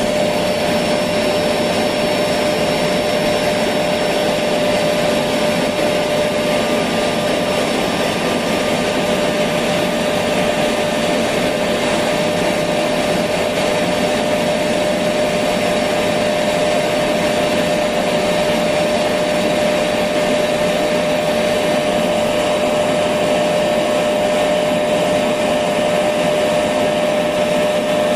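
Electric vacuum cleaner running steadily, a constant rushing noise with a fixed motor hum.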